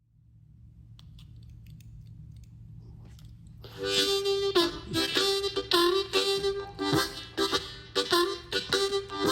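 Harmonica playing a blues riff: short repeated notes, some bent in pitch, beginning about four seconds in after a pause with only a faint low hum.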